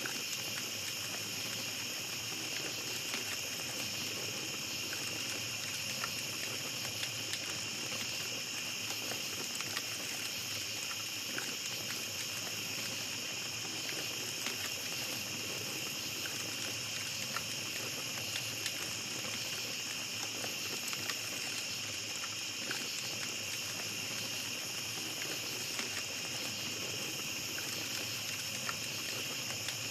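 Steady high chorus of night insects over a small campfire crackling, with scattered small pops throughout.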